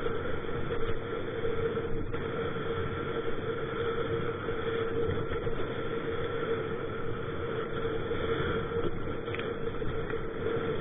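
Strong wind buffeting the microphone on open water: a steady rushing rumble with a constant hum running through it.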